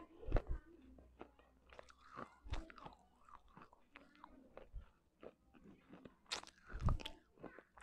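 Close-miked chewing of broken fired-clay pot shards: a run of sharp, dry crunches as the pieces are bitten and ground, with louder bites near the start and near the end.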